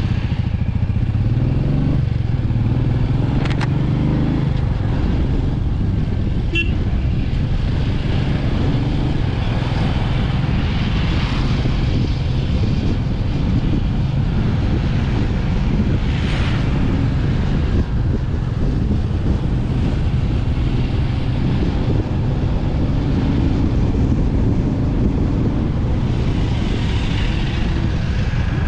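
Motorcycle engine running steadily as the bike is ridden, its low hum shifting slightly in pitch with the throttle. A couple of brief clicks come in the first seven seconds.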